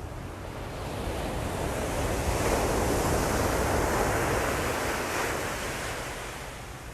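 Ocean surf: one wave surging in, its rushing noise building for about two seconds, holding, then fading away near the end. A steady low rumble of wind on the microphone runs underneath.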